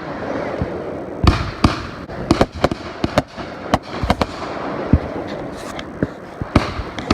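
Fireworks going off: a rapid, irregular string of sharp bangs, about three a second, starting about a second in over a continuous hiss.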